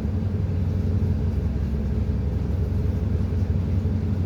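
A vessel's diesel engine running steadily: a continuous low drone with a deep rumble.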